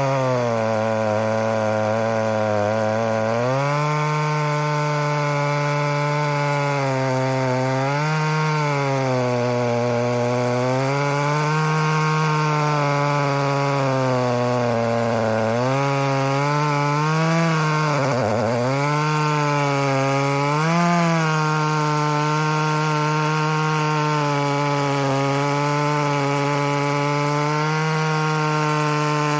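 Echo CS-620P two-stroke chainsaw with a ported dual-port muffler, pulling a 36-inch bar through a poplar stump at full throttle. The engine note sags under load and recovers again and again, dipping deepest about 18 seconds in.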